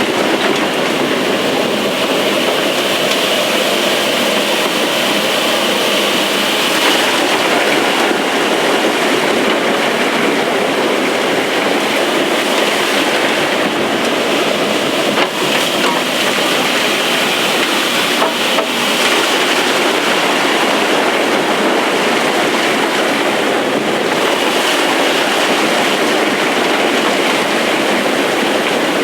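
Opal-mining machinery running steadily and loudly: the blower's suction sucking dirt up to the surface while the tunnelling digger cuts into the opal wall.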